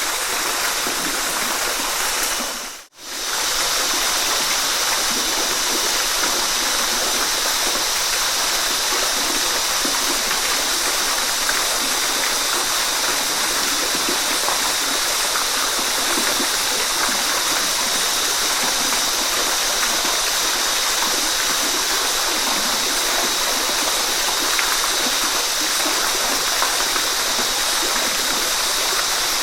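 Waterfall: a steady, even rush of falling water. It cuts out for a split second about three seconds in, then carries on unchanged.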